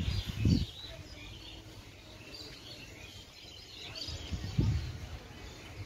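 Small birds chirping over steady outdoor background noise, with two loud low thumps, one about half a second in and one near the end.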